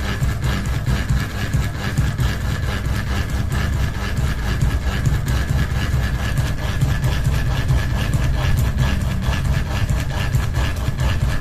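Ceiling fan running with one blade out of balance: a steady low hum with a regular pulsing beat from the wobbling blade.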